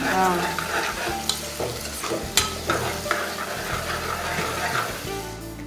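Onions and squid rings frying in oil and ghee in a pressure cooker pot, stirred with a steel ladle: a steady sizzle with scattered clicks and scrapes of the ladle against the pot.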